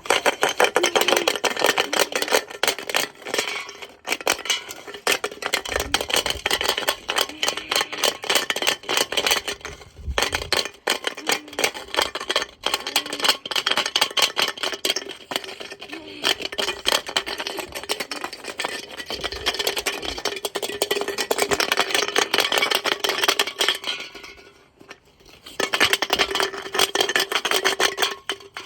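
A washing machine runs with a brick in the drum and the brick resting on the door seal, making a dense, rapid clattering and banging over a steady motor hum. The racket eases briefly about four seconds in, around ten seconds and again near the end.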